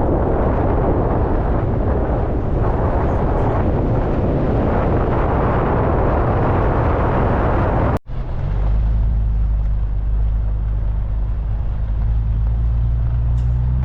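Vehicle driving on a dirt road: a steady, dense road noise for about eight seconds, then, after an abrupt cut, a steady low engine drone.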